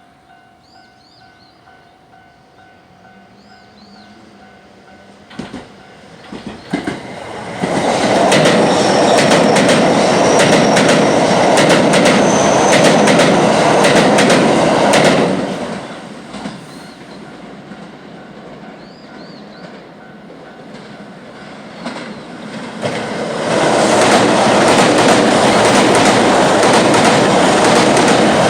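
JR West 227 series electric trains passing over a level crossing one after the other, with the crossing's warning bell ringing steadily at first. Wheels clack over the rail joints as the first train comes in. Its loud rumble lasts from about eight seconds in to about fifteen. The second train's rumble builds again about three quarters of the way through.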